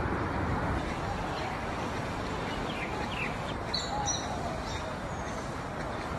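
Steady outdoor background noise with a few faint, short bird chirps between about two and four and a half seconds in.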